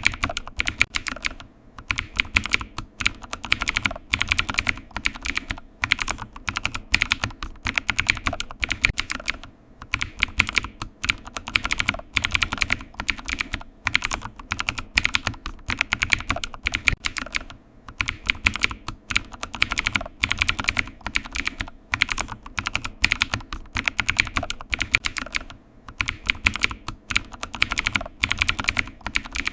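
Computer keyboard typing: rapid key clicks in runs of a few seconds, broken by short pauses.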